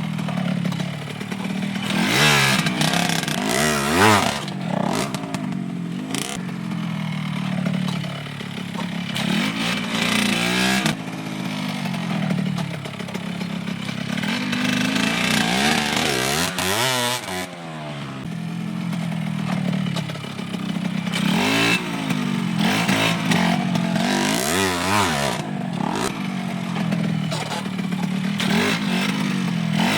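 Dirt bike engine running off-road: a steady low idle broken again and again by short throttle blips that rev it up and let it fall back.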